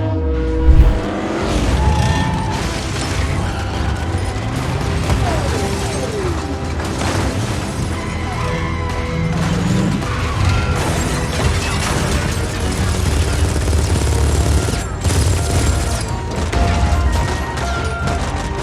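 Action-movie car-chase sound mix: score music over car engines and mechanical clatter, with one loud boom about a second in.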